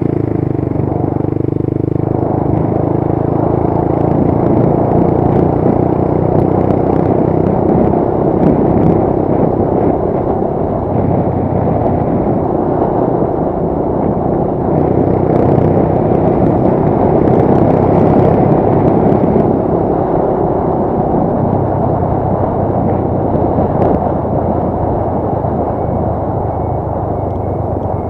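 Motorcycle engine running at a steady pace on the road, with a continuous rush of wind and road noise.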